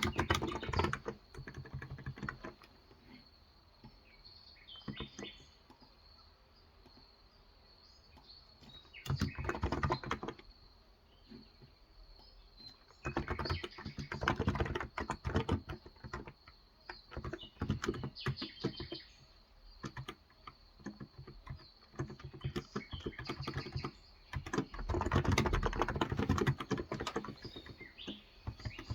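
Typing on a Cox Endeavor electrostatic capacitive (non-contact) tenkeyless keyboard with 35 g switches, in bursts of a second or two with pauses between. Birds chirp faintly in the quieter gaps.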